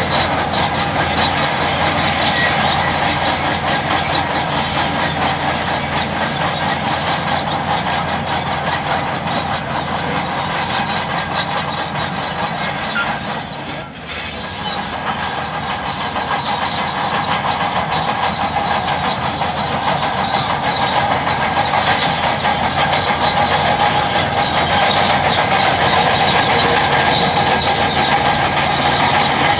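Bulldozer's diesel engine running steadily while working, with a short dip in loudness about halfway through.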